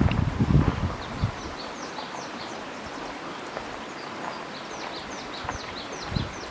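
Birds chirping: many short, high, falling notes repeated throughout, over a steady rustling hiss. A few low bumps come in the first second or so and another near the end.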